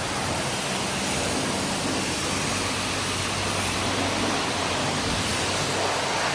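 High-pressure car-wash spray wand spraying steadily, a continuous hiss of water with a low steady hum underneath.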